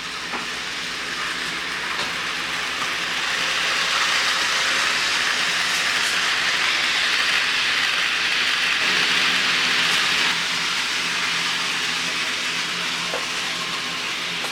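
Bachmann Thomas the Tank Engine model locomotive running on a test track under DC power: a steady hissing rumble of wheels on rail with a faint motor hum. It swells slightly a few seconds in and eases a little later on.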